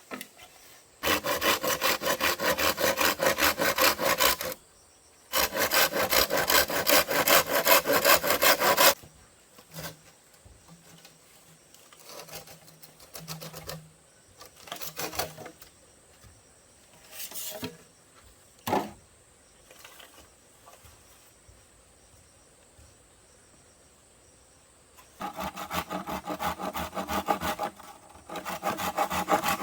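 Hand saw cutting bamboo in three bouts of quick, rasping strokes, with scattered knocks and clatter from handling the bamboo between them.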